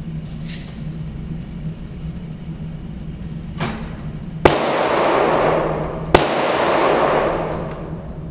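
Handgun shots at a gun range: a fainter crack about three and a half seconds in, then two loud shots about a second and a half apart, each trailing off in a long echo.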